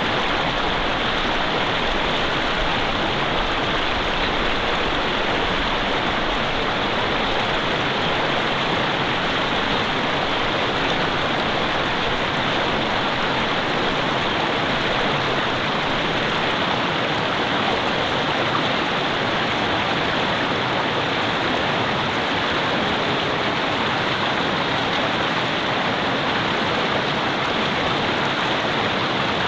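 Mountain river flowing, a steady, unbroken rush of running water.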